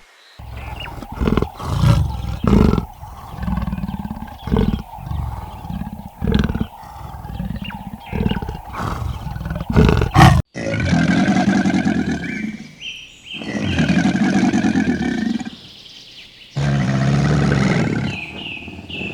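Wild animal calls from two different clips. First comes a series of about ten short, deep calls. After a sudden cut about ten seconds in, there are three long, drawn-out calls of about two seconds each.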